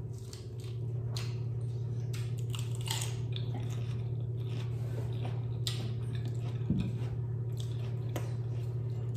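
Close-up crunching and chewing of crisp fried food, in irregular bites throughout, over a steady low hum.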